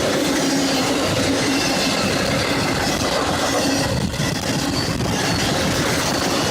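CSX freight train cars rolling past, a steady loud noise of steel wheels on rail. A faint whine fades out about three seconds in.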